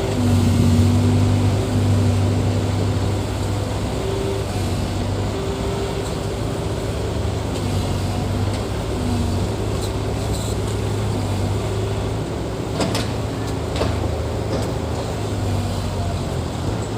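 Heavy earthmoving machine's diesel engine running steadily with a low drone, with a couple of sharp knocks about two-thirds of the way through.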